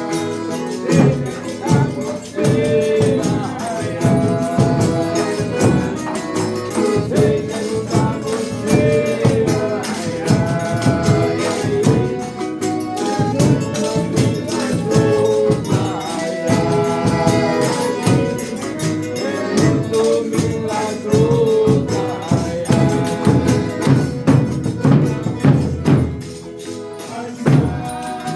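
Folia de Reis folk music: voices singing a drawn-out sung verse over steady tambourine jingles and rhythmic percussion.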